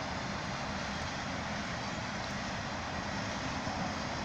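Cars of a BNSF freight train rolling past, a steady noise of wheels on the rails.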